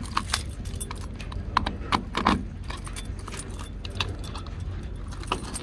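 A bunch of keys jangling, with scattered sharp clicks, while the key-locked fuel cap of a pickup truck is unlocked and opened.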